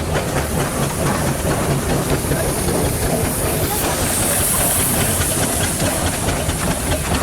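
1890 Wallis & Stevens steam traction engine running past, its steam hiss swelling to its loudest about four seconds in over a steady low rumble.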